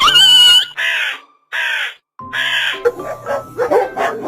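Four harsh, raspy animal calls in quick succession, each about half a second long, followed by music.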